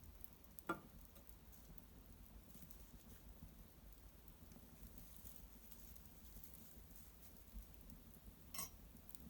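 Small fire of dried maple brushwood burning quietly in an irori hearth: faint crackling, with a sharp pop about a second in and another near the end.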